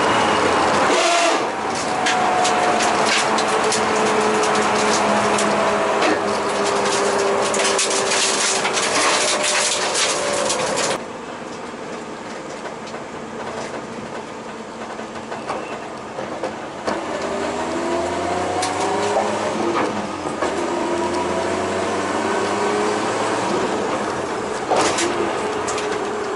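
Nissan R32 Skyline GTS-T race car heard from inside its stripped cabin on track, engine running hard with its pitch sweeping slowly down. About eleven seconds in the harsh noise drops away suddenly and the level falls, then the engine pitch rises and falls again.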